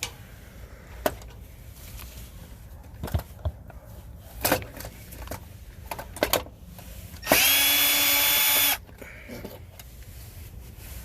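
Cordless drill with a 5/16 nut driver running once for about a second and a half, its motor whine rising quickly and then holding steady, as it backs out a screw holding the HVAC contactor. Before that, scattered clicks and knocks of the tool and parts being handled.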